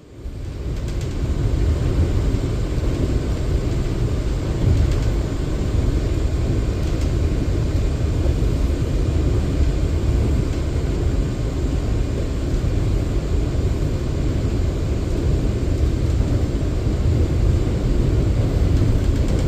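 Steady low rumble of an R179 New York City subway train, with no distinct clicks or tones standing out.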